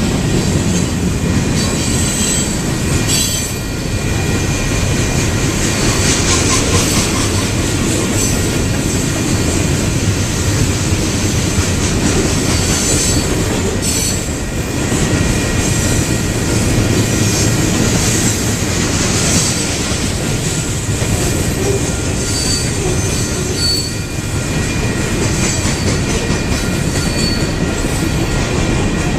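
Freight train cars rolling past: a steady rumble and clatter of steel wheels on the rails, with thin squealing tones from the wheels. A few short, higher squeals come near the end.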